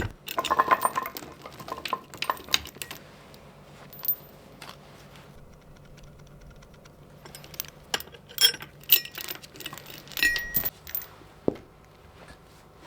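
Small metal parts clinking and rattling in a scattering of light, sharp taps, busiest about two-thirds of the way through, with one brief metallic ring.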